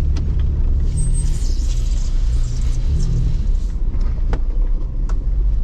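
Jeep Wrangler LJ driving slowly on a rough back road: a steady low engine rumble with a few sharp knocks or rattles from bumps.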